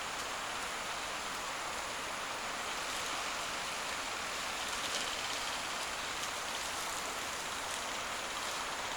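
Steady rushing outdoor noise, like running water or rain, with a few faint ticks.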